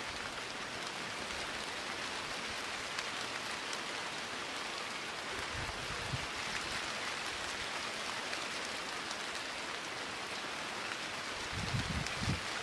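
Steady rain falling, an even hiss. Brief low rumbles break in a little before the middle and again near the end.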